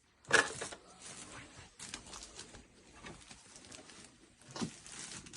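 Faint handling noises on a coffee machine: a short clatter about half a second in, light scattered ticks and rustles, and another short clatter near the end.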